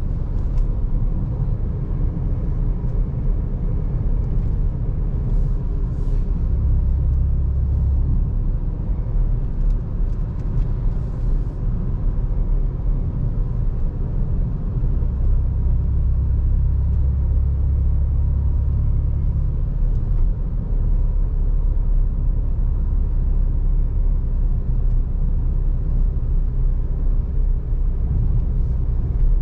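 Seat Ibiza FR's 1.0 TSI three-cylinder turbo engine through a Friedrich sport exhaust, running steadily on the move with a low rumble and road noise. The low drone swells briefly about six seconds in, and again for several seconds from about fifteen seconds.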